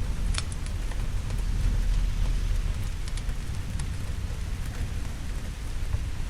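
Steady rain with a low rumble of distant thunder swelling about a second in. Scattered sharp crackles from a wood fire come through, the loudest near the start.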